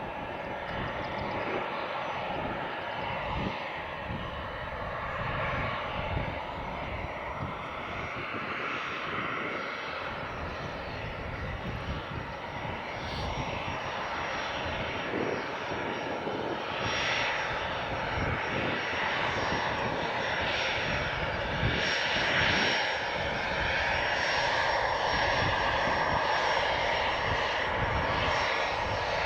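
Airliner engines running, a steady engine noise with a high whine, growing somewhat louder in the second half.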